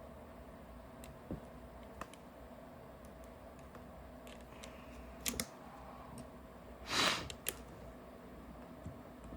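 Small clicks and taps of paintball marker parts being handled and fitted by hand, with a brief louder scuffing noise about seven seconds in.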